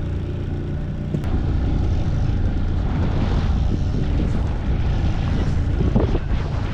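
Fishing boat's motor running steadily while trolling, a low even drone with wind buffeting the microphone.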